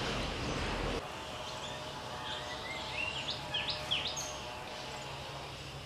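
Birds chirping outdoors: a quick run of short, sharp chirps a little after the middle, over a faint steady hum. A rough rushing noise in the first second cuts off abruptly.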